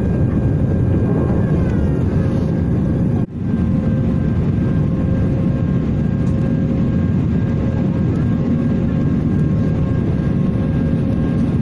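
Airbus A320 engines running steadily, heard from inside the passenger cabin as a loud, even rumble with a few faint steady whining tones on top. The sound cuts out for an instant about three seconds in.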